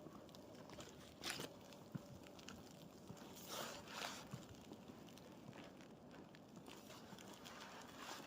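Faint crunching of boots stepping in snow: one crunch about a second in and a longer one from about three and a half to four seconds in, over a low steady hiss.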